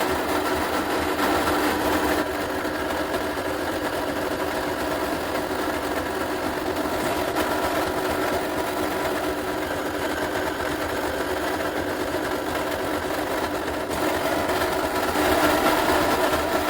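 Electric drill motor running steadily while drilling holes in a steel exhaust flange; it stops abruptly at the end.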